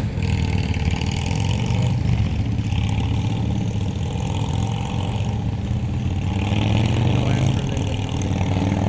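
Motor vehicle engine running steadily, a low hum.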